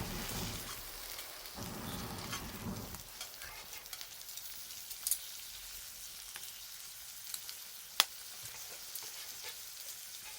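Wood fire crackling: a steady hiss with scattered small pops and one sharp pop about eight seconds in. A low rumble under it fades out about three seconds in.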